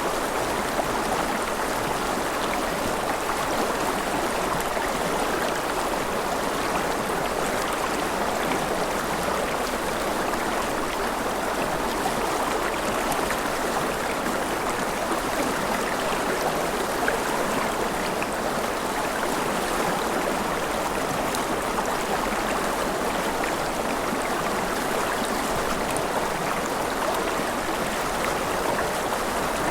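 River water flowing steadily over rocks: a continuous rushing and babbling of a stream, with small splashes and trickles scattered through it.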